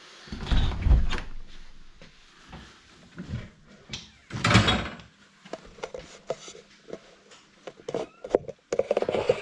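A series of knocks and thumps, like things being handled and set down. The loudest come about half a second in and four and a half seconds in, followed by many short, quick clicks and taps.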